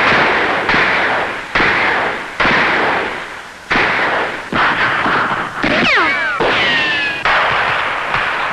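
Gunfire: about nine shots, roughly one a second, each with a long fading echo. Around six seconds in, a few falling whistling glides sound over the shots.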